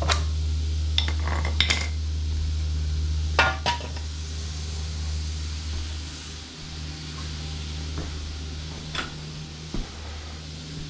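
Metal hand tools clinking and tapping against metal mower parts while he works at a socket stuck on the blower fan: several sharp clinks in the first four seconds and one more near the end, over a steady low hum.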